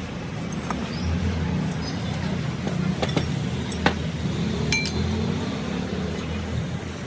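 A steady low rumble with a few sharp clinks scattered over it, like metal or glass being knocked. The sharpest clink comes about four seconds in.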